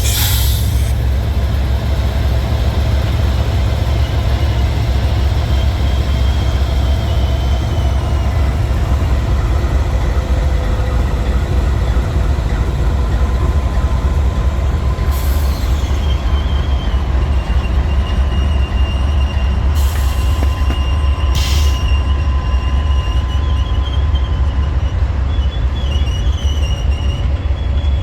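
Freight train rolling by with a steady low rumble from the cars, and wheels squealing in thin high tones, more steadily from about halfway through, with a few brief sharp noises.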